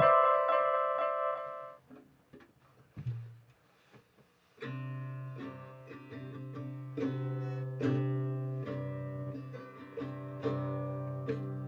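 Instrumental music on a plucked string instrument. A held chord dies away in the first two seconds, then comes a pause with one soft note. About four and a half seconds in, a tune of plucked notes starts over a held low note.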